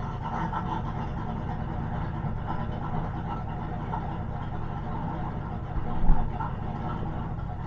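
Car engine running steadily at idle, with one short loud thump about six seconds in.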